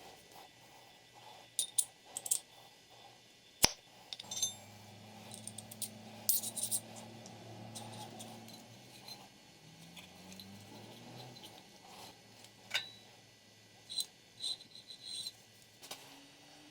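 Small metal parts and hand tools clinking and clicking, with scattered sharp taps, the loudest a few seconds in. A low hum runs through the middle, its pitch wavering and rising before it fades.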